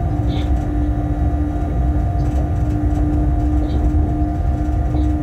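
A Bombardier Traxx BR186 electric locomotive hauling a freight train, heard from the cab: a steady low rumble of wheels on rail with a constant hum from the locomotive. Brief high squeaks sound three times.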